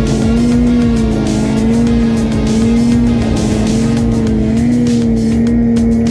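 Snowmobile engine running at high revs, its pitch rising and falling slightly as the throttle varies, with music playing over it.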